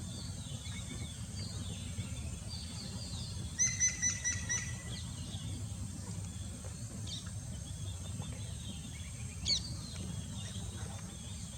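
Wild birds calling and chirping. A quick run of repeated high notes comes about three and a half seconds in and a single sharp call near the end, with softer chirps between, over a steady low rumble.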